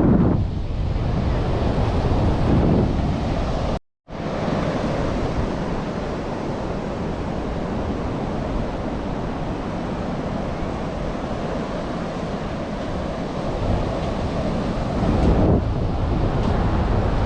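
Ocean surf and wind, with wind buffeting the microphone in gusts; the sound cuts out for a split second about four seconds in.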